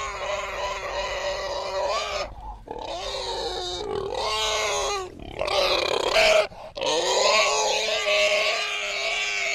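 A group of piglets squealing in long, high, overlapping calls, broken by a few short pauses.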